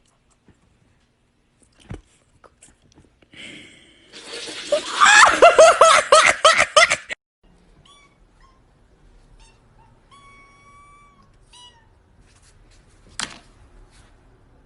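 A cat crying loudly in a rapid run of repeated, pitched yowls for about three seconds, followed by a few faint, thin high tones.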